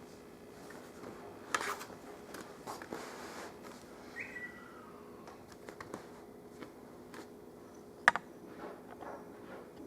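Light clicks and handling sounds of small screws being taken out of a laptop screen's rail with a screwdriver. The sharpest clicks come about a second and a half in and about eight seconds in, with a brief squeak about four seconds in, over a faint steady hum.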